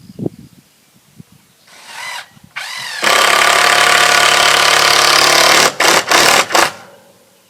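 Power drill driving a screw into a wooden 2x4: a short spin-up, then a steady loud whine for about three seconds, finished with a few quick trigger bursts to seat the screw.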